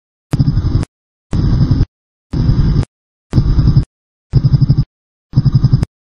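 Dirt bike engine running as heard from the rider's camera, but the audio is chopped into six half-second bursts, one a second, with dead silence between them and a click at each cut: a recording or editing dropout.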